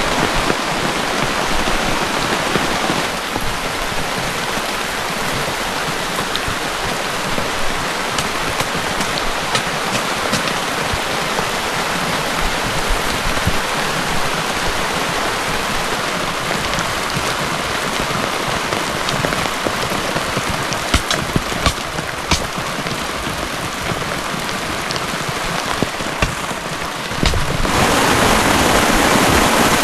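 Heavy rain falling steadily, with scattered sharp drop hits on a surface. It grows louder near the end.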